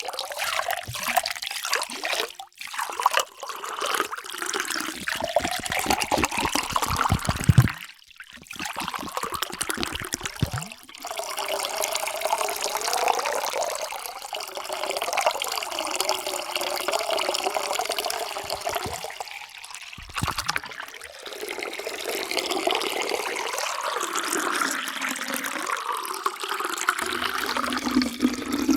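Water being poured into a container in several separate pours, splashing and trickling. A tone rises in pitch as the container fills.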